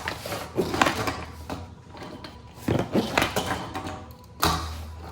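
Small plastic toy monster trucks being handled and knocking against a tabletop, a handful of sharp knocks and clatters with short gaps between.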